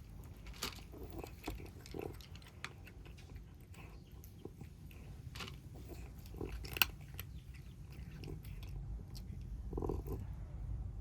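Kittens eating, with irregular chewing and crunching sounds and scattered small clicks. One sharp click comes about seven seconds in.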